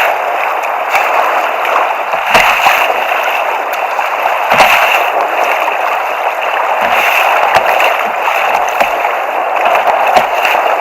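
Sea water rushing and splashing around a fishing kayak being paddled out through surf, with a sharper splash every couple of seconds.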